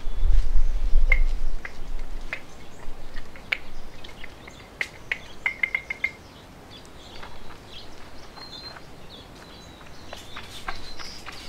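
Small birds chirping, with many short, sharp chips and a quick run of high notes about six seconds in. A low rumble is louder than the calls in the first couple of seconds.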